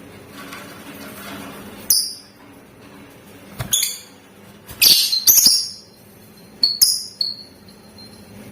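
Lovebird giving short, shrill chirping calls in separate bursts, with pauses between them. The loudest calls come about halfway through, and a brief thin high note is held near the end.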